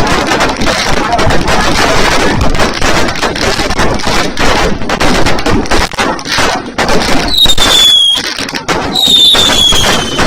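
Fireworks crackling and popping in a dense, rapid barrage. About seven seconds in, and again near the end, a high whistle falls slowly in pitch over the crackle.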